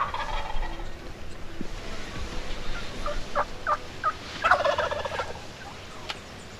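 Wild turkey gobbling twice, once at the start and again, louder, about four and a half seconds in, with a few short single calls in between.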